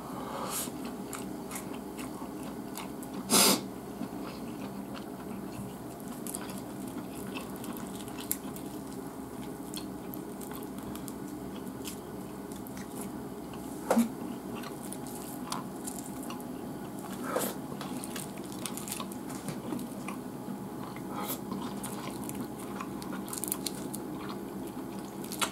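Close-up eating sounds: chewing of rice and salt-grilled flounder, with chopsticks clicking and scraping on the plate as the fish flesh is picked off the bone. Two louder knocks stand out, about three seconds in and about fourteen seconds in, over a steady low hum.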